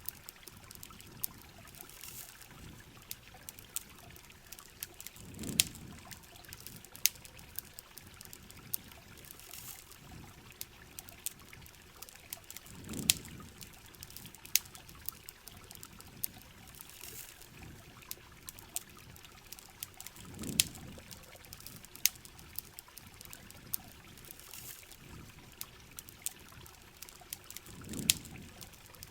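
Steady rain with trickling water and the frequent sharp pops of a crackling campfire. A soft low swell comes and goes about every seven to eight seconds.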